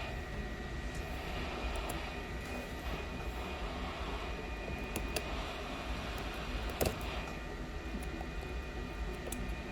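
Steady fan drone from the bench, with a few faint clicks of a small metal tool on the phone and one sharper click about seven seconds in.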